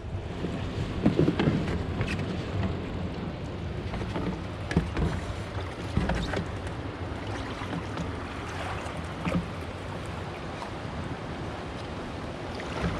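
Steady rushing noise like wind on the microphone, with several short knocks scattered through it.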